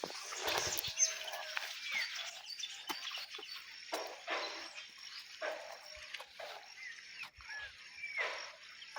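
Short animal calls repeating about once a second, each bending up and down in pitch, over a faint steady high whine.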